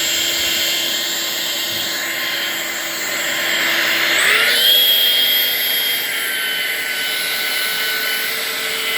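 Eufy HomeVac S11 cordless stick vacuum's motor running with a steady whine. About four seconds in it steps up to a higher, louder pitch as it is switched to maximum power, and near the end it cuts out and winds down. With the long telescopic brush attached, it shuts off at maximum power as if the battery were empty, although it is fully charged.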